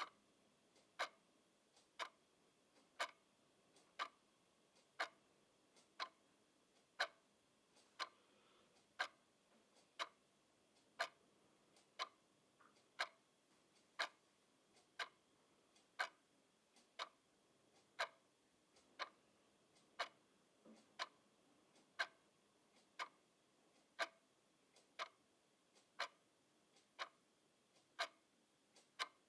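A clock ticking steadily, one crisp tick each second, with a fainter click between some of the ticks.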